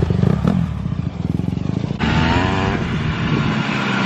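Dirt bike engine running and revving, its pitch rising and falling. The sound changes abruptly about two seconds in.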